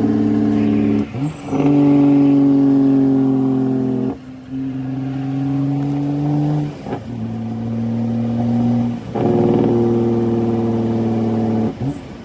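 Straight-piped CAT C13 diesel in a Kenworth W900B dump truck pulling away under load, its pitch rising slightly through each gear and dipping briefly at about four upshifts.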